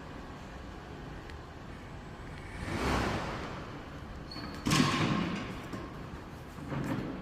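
A door sliding and thumping over a steady low hum: a whoosh about three seconds in, then a sudden thump with a short rattle that dies away, and a smaller one near the end.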